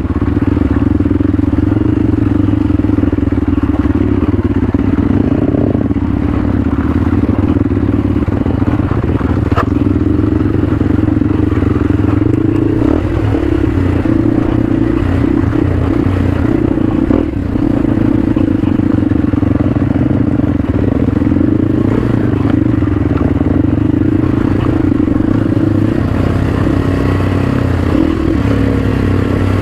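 Motorcycle engine running at a steady pitch while riding along a route with steep stretches, with some clatter from the bike.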